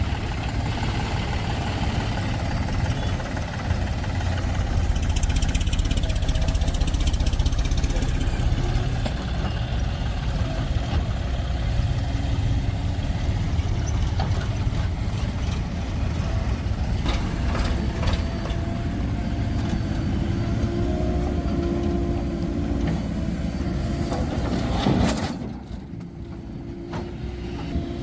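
Heavy diesel engine running steadily under work, as a JCB backhoe loader and tractor load soil. About 25 seconds in the sound drops suddenly to a quieter, steady hum.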